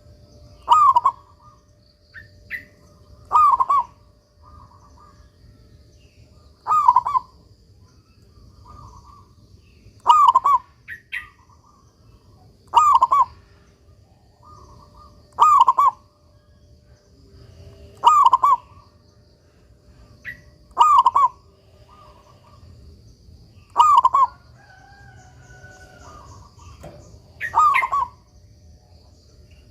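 Zebra dove (perkutut) cooing: about ten short phrases of song, coming one every two and a half to three seconds.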